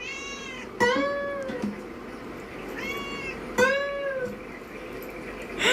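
A cat meowing four times in two pairs, each meow rising and then falling in pitch.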